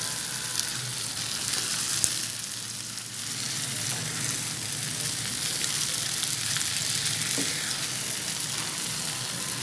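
Brain masala (bheja fry) sizzling steadily in an oiled pan as fresh tomato pieces are stirred in with a metal spatula, with a few faint scrapes against the pan.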